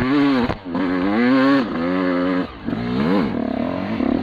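Two-stroke off-road engine revving up and down in a few long pulls, each lasting a second or two, with a quick rise and fall near the end before it settles into a steadier buzz.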